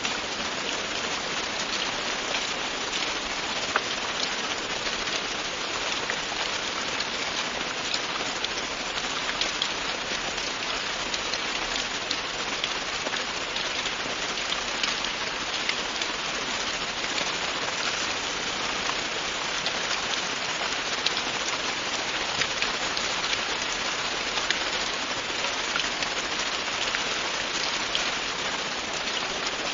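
Steady, continuous rain falling on a surface, a dense even hiss with many small drop ticks throughout.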